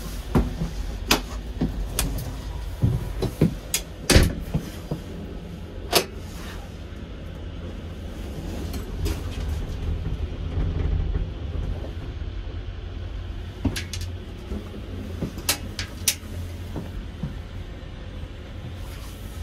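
Steady low rumble of the moving InterJet coach, heard inside its lavatory. Over it come sharp clicks and knocks of the cubicle's fittings being handled, several in the first six seconds and a few more near the two-thirds mark.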